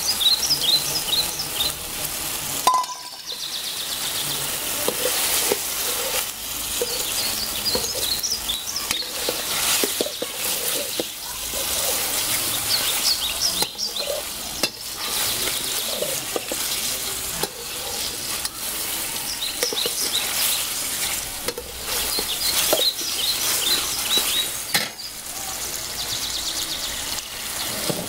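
Chicken and okra curry sizzling in a metal wok while a spatula stirs it and scrapes the pan in a run of small clicks.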